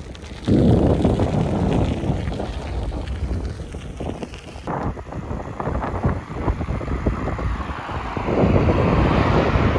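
Wind buffeting the microphone: a loud, gusty low rumble that comes in suddenly about half a second in and keeps fluttering unevenly.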